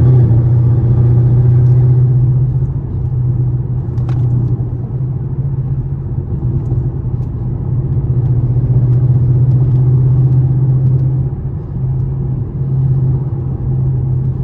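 Chevrolet Camaro SS's V8 engine and exhaust droning steadily at a cruise, heard from inside the car with road rumble, easing off slightly a couple of times.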